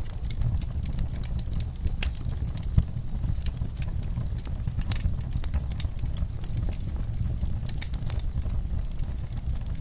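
Wood fire burning in a fireplace, a steady low rumble under irregular crackles and small pops, with one sharper pop about three seconds in.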